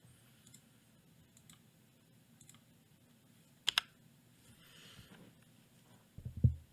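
Two sharp clicks close together about three and a half seconds in, then a short run of dull, low knocks near the end. A few faint ticks come in between, from handling at a computer desk.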